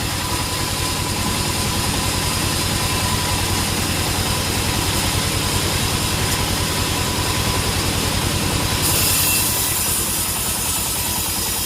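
A bandsaw sawmill's engine running steadily with a fast, even low pulse. About nine seconds in, a brief high hiss rises over it for about a second.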